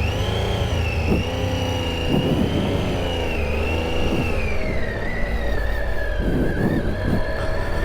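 Triumph Tiger 800 XCa motorcycle's three-cylinder engine running under way, with a steady low rumble and a high whine that falls in pitch about five seconds in as the engine slows.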